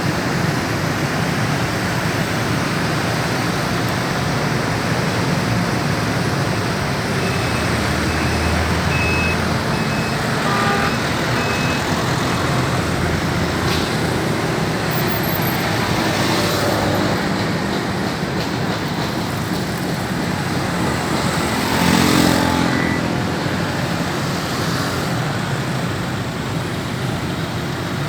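Steady road traffic noise from passing vehicles, with one vehicle passing close and loudest about 22 seconds in.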